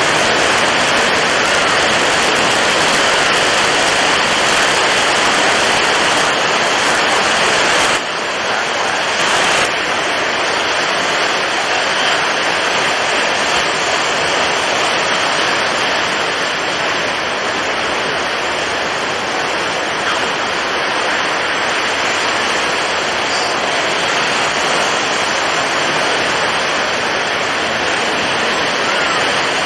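Storm at sea: strong wind and breaking waves as a dense, steady rush of noise. About eight seconds in, the highest hiss drops away and the level dips slightly.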